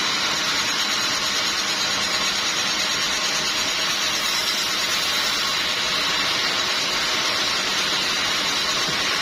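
Sawmill machinery running steadily: a loud, even mechanical noise with a faint high whine.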